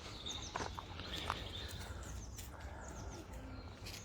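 Small birds chirping: many short, high, falling calls repeating, over a steady low rumble and a few faint clicks.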